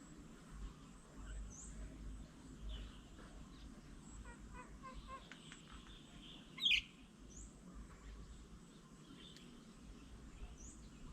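Birds calling outdoors: scattered short, high, rising chirps, a quick run of notes a little before the middle, and one louder sharp call about two-thirds of the way through.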